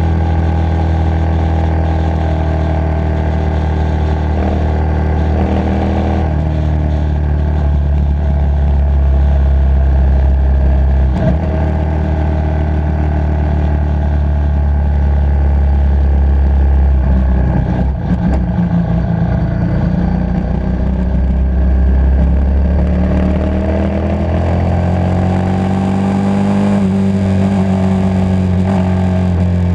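Motorcycle engine running under way at road speed. The engine note drops about 6 seconds in, breaks briefly about 18 seconds in, then climbs steadily as the bike accelerates from about 23 seconds in.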